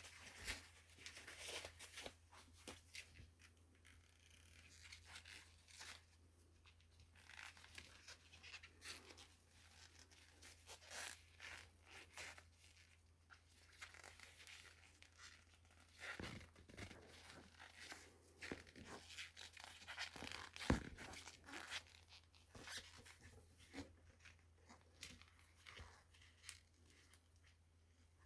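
Irregular clicks, scrapes and crackles of hands working on small parts and wiring, with a sharp click about three quarters of the way through, over a low steady hum.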